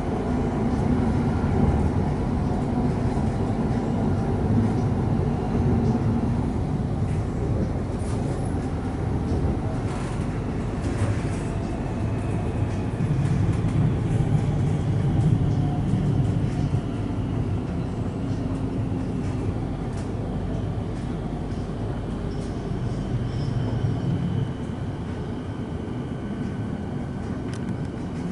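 Melbourne suburban electric train running along the track, heard from inside the carriage: a steady rumble of wheels on rail, with a faint motor whine and occasional clicks.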